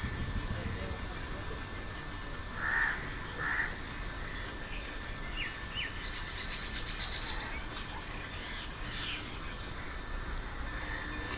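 Birds calling: two short harsh caws about three seconds in, then a couple of quick rising chirps and a fast high ticking trill.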